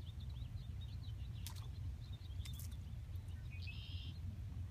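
Small birds chirping over and over against a steady low rumble, with two sharp clicks about a second apart and a short buzzy note about three and a half seconds in.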